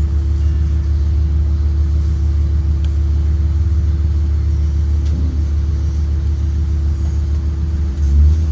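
2023 Blue Bird Vision school bus running: a steady low rumble with a constant hum, swelling briefly near the end.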